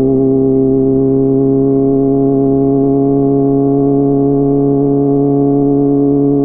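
Kawasaki ZX-25R's 250 cc inline-four running at a steady engine speed through a DX Generation GPR full-system aftermarket exhaust, a constant even drone that holds one pitch.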